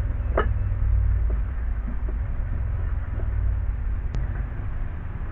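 Steady low rumble, with a few light clicks and taps from a transmission cooler line fitting being worked onto the radiator by hand; a sharp tick comes about four seconds in.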